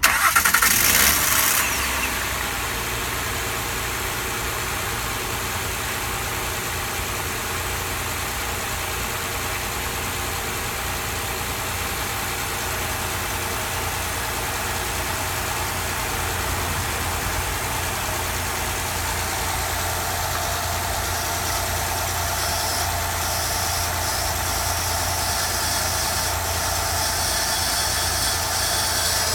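2008 Honda Accord V6 engine running steadily, after a louder rush of noise in the first two seconds. A high shriek joins in about two-thirds of the way through.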